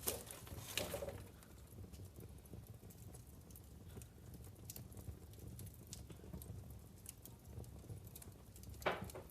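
Wood fire crackling in a fireplace: scattered small pops over a low, steady rumble, with a couple of louder pops about a second in and one just before the end.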